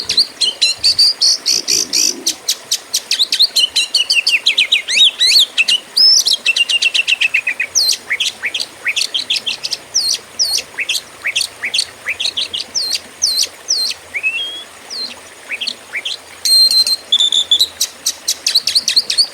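Oriental magpie-robin (kacer) singing: a continuous, fast, varied song of sharp chirps, rapid trills and sweeping whistled notes, with a brief steadier high-pitched phrase near the end.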